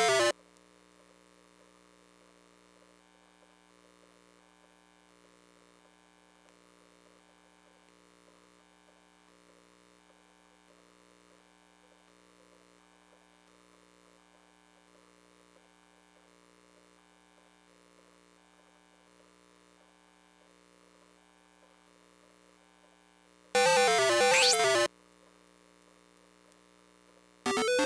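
Faint steady electrical hum from a Sanyo Circus III pachinko machine, broken near the end by two short, loud, warbling electronic jingles from the machine, the first lasting about a second.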